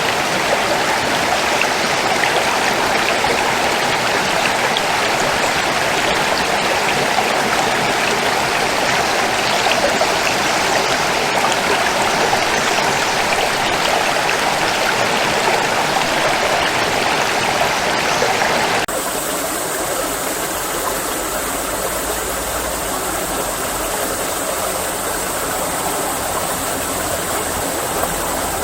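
Stream water rushing over stones in a steady, even rush. About two-thirds of the way through it cuts abruptly to a quieter water recording with a thin, steady high tone above it.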